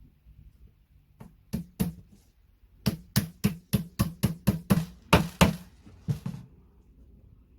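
A series of sharp knocks on flat-pack furniture: a few single strikes, then a quick run of about three a second, ending a little after six seconds in.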